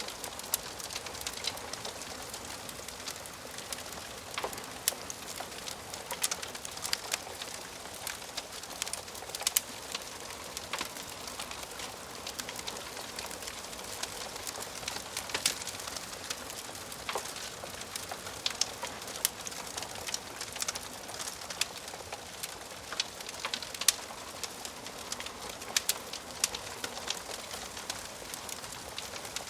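Wood fire crackling in a fireplace: a soft steady hiss with frequent irregular sharp pops and snaps.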